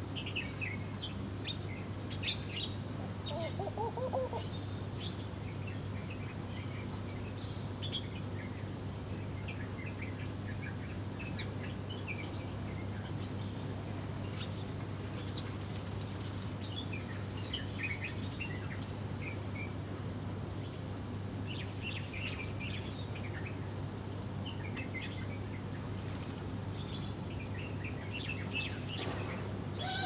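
Small birds chirping in short, scattered calls throughout, over a steady low hum.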